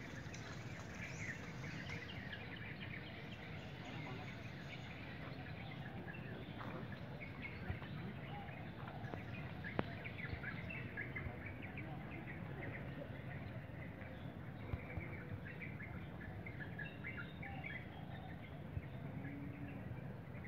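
Outdoor ambience of many small birds chirping over a steady low background noise, with a few sharp ticks.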